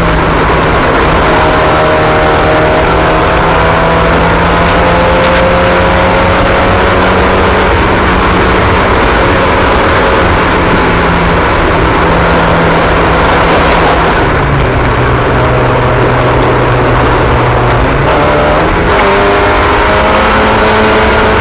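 Several racing car engines running together at a steady, high speed, their pitches holding and shifting in slow glides as the cars circle, with a step change in engine pitch about two-thirds of the way through.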